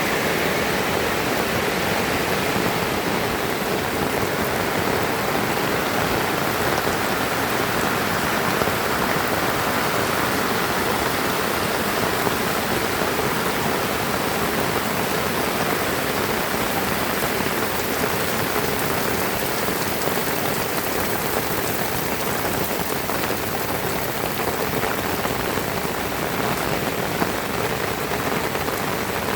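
Heavy rain falling steadily, a dense, even hiss of rain on surfaces with no letup.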